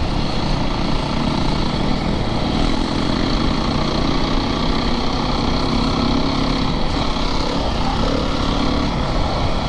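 Four-stroke single-cylinder dirt bike engine running at a steady riding pace, its pitch shifting a little now and then with the throttle, over a constant rushing noise.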